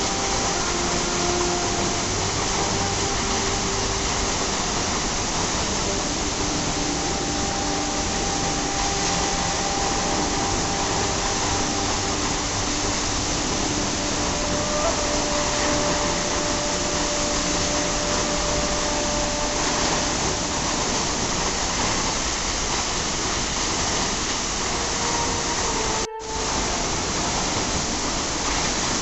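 Steady, loud rush of a waterfall, an even wash of falling water. Faint held tones sit under it, and the sound drops out for a moment near the end.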